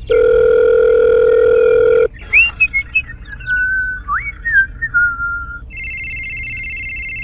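A loud, steady tone held for about two seconds, then a string of short sliding whistle tones, then a steady high-pitched tone near the end.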